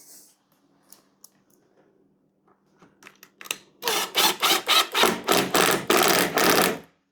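A few small clicks, then about four seconds in a run of about ten short, harsh strokes of a tool working on the door, roughly three a second.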